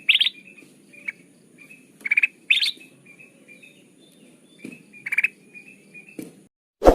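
Kutilang emas (bulbul) lure calls: short, bright chirps in quick clusters of two or three notes, repeated every second or two, with softer twittering between. Near the end the calls and background stop suddenly and a single sharp thump follows.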